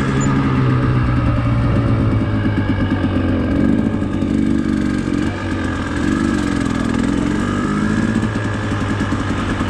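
Dirt bike engine running steadily at idle, with the pitch wavering a little in the middle.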